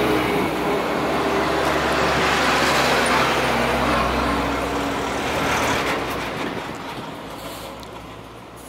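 Freight train running along the line, a steady rolling rumble of its wagons that fades away over the last few seconds as it moves off.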